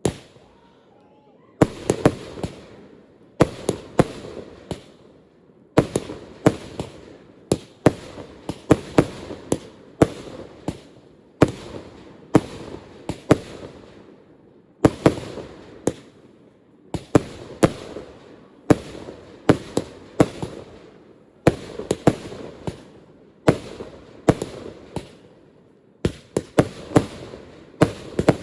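Fireworks display: a long, rapid string of bursts, sharp bangs coming singly and in quick clusters, each trailing off in a short rumbling echo. After one bang at the start there is a short pause, then the bursts follow on with hardly a break.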